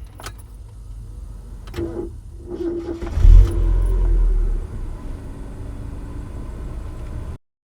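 Mazda MX-5 NA Miata running with a steady engine rumble and a steady whine from about two seconds in to about five seconds in. This is typical of the whine that shows up around 2,000 rpm in low gears. A sudden loud low surge comes about three seconds in.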